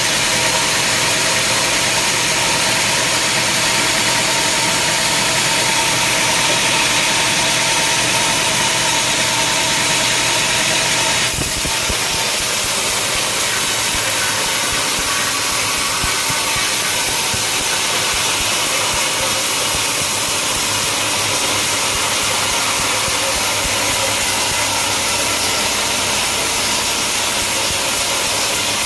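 Sawmill machinery running steadily, an engine-driven drone with steady tones, shifting abruptly about eleven seconds in.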